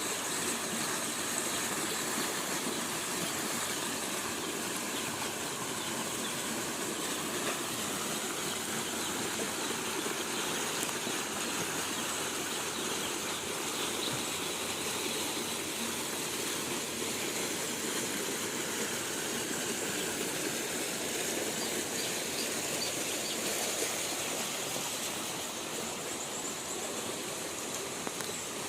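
Steady rain falling, with runoff water flowing.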